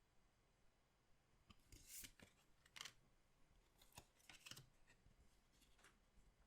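Goddess Story trading card packs and cards being handled and opened: a few short bursts of crinkling and rustling, the loudest about two and three seconds in.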